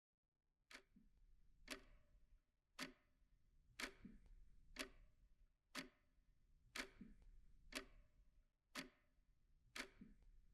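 A clock ticking faintly and evenly, about one tick a second, over a low room hum.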